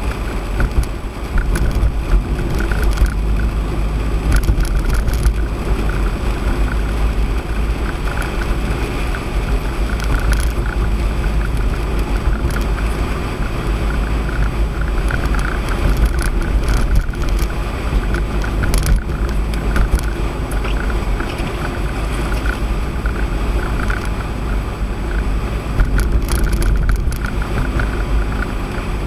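Steady road noise inside a car driving on a wet road in the rain: Firestone Firehawk Sport 01 tyres hissing through surface water over a constant low rumble.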